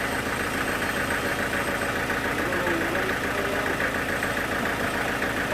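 A sawmill's engine running steadily, with a fast, even pulsing.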